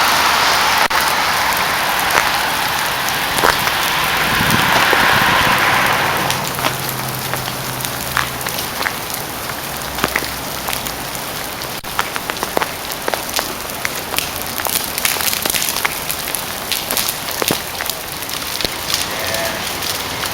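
Rain and drops falling on ice-glazed trees and ground during an ice storm: a steady hiss for the first few seconds, then many scattered sharp ticks and patters.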